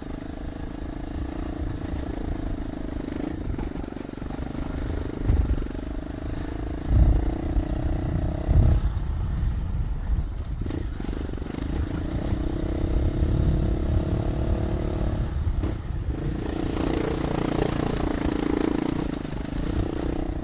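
Dual-sport motorcycle engine running while the bike is ridden along a dirt trail. Its note drops back about nine seconds in and picks up again near the end. A few heavy low thumps come in the first half.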